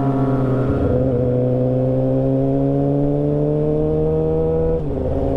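Motorcycle engine accelerating, its pitch rising steadily as it pulls through a gear, with a brief dip at a gear change about a second in and another near the end.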